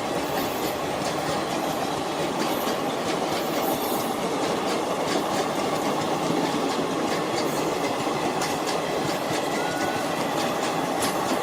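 A train running past: a steady rumble of wheels on the rails, with faint irregular clicking.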